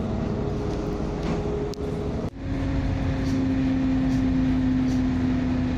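Diesel multiple unit (DMU) commuter train running, heard from inside, a steady rumble with a held hum. The hum drops in pitch after a short break a little over two seconds in.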